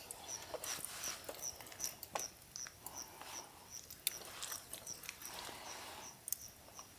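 Small scattered crackles and clicks, as of a wood campfire burning, with a faint high chirp repeating about three times a second in the background.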